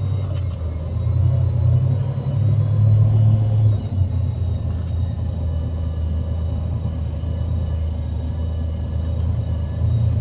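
Scania Irizar i5 coach on the move, heard from inside the cabin: a steady low rumble of engine and road, a little stronger for the first four seconds.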